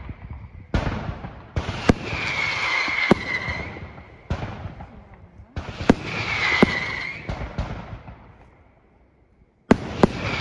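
Aerial fireworks shells bursting: a string of sharp bangs, each followed by a noisy tail of a second or two that fades away. Near the end there is a short lull, then two more bangs in quick succession.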